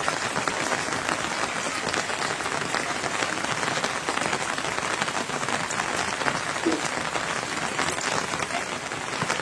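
Rain falling steadily, a dense patter of drops on a surface.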